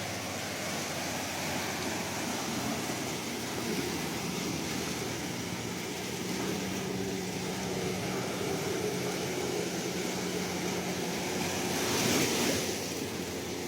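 Sea waves washing steadily as a continuous surf noise, with one louder wave breaking near the end.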